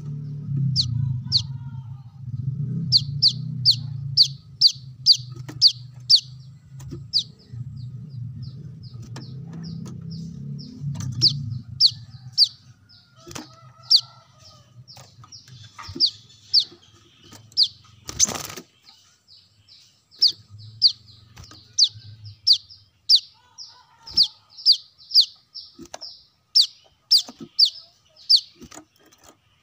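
Brown-throated sunbird (kolibri kelapa) calling: long runs of sharp, high chips, about two or three a second, with short breaks. A low hum runs under the first dozen seconds, and one brief noisy burst comes near the middle.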